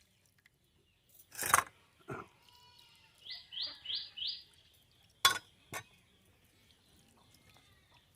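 A bird calls four quick rising notes in a row. Before it comes a short, loud noisy crash and a softer knock; after it come two sharp clicks.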